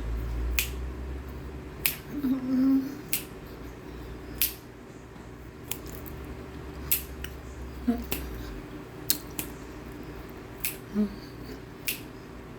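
Raw cornstarch being crunched between the teeth: sharp, crisp crunches about once a second, with a brief low hum about two seconds in.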